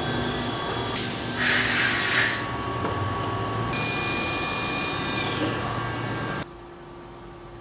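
A CNC machine running with a steady, whining mix of tones, and a loud hiss of spray for about a second, starting a little over a second in. The sound changes abruptly a few times, and drops to a quieter steady hum near the end.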